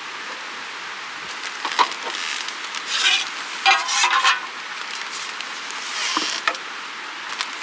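Steady rush of a creek, with a few short rustles and light clinks from food and camp cooking gear being handled, the loudest about three to four seconds in.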